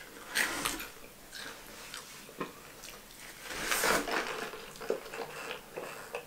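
Chewing and small mouth noises of a person eating fries and fried chicken, with scattered soft clicks. About four seconds in comes a brief louder rustle as a foam drink cup is picked up, followed by sipping through its straw near the end.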